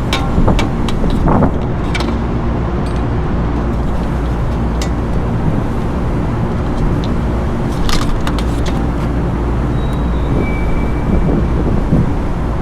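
Steady low mechanical drone of running rooftop equipment, with scattered sharp clicks and small metallic knocks from hands and tools working on the fan's wiring.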